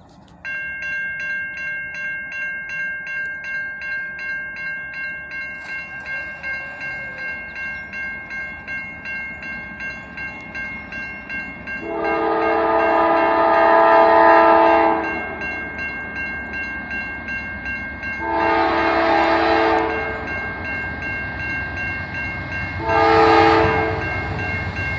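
Railroad crossing bell ringing in a steady rhythm, about two to three strokes a second. Over it a locomotive air horn sounds the grade-crossing signal: two long blasts and a short one. The low rumble of the approaching train grows near the end.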